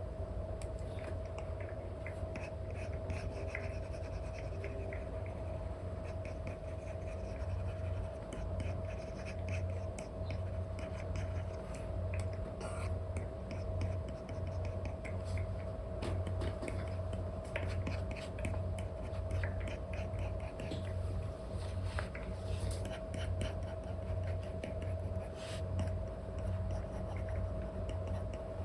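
Apple Pencil 2 with an Elecom nib scratching and tapping across a paper-like screen protector on an iPad in short, irregular painting strokes, over a steady hum.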